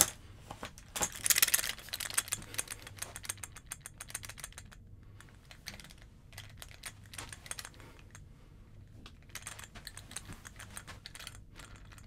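A gun being shaken, its metal parts rattling and clicking in quick, irregular runs. The rattling is densest about a second in and again near the end, with a short pause partway through.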